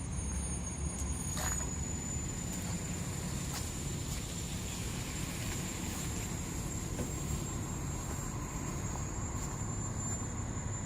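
Steady low rumble of street traffic and vehicle engines, with a thin, high, steady whine above it and a few faint clicks.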